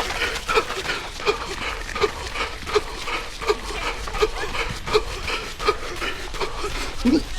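A runner's hard, wheezing breaths while running: short, rasping gasps in a steady rhythm, roughly three every two seconds.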